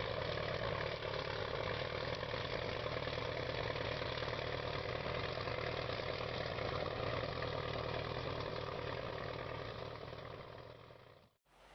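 Heavy vehicle engine running steadily at a constant speed, fading out near the end.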